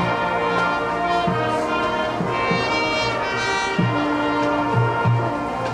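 Marching band brass playing a tune, with sustained trumpet and trombone notes over moving low bass notes.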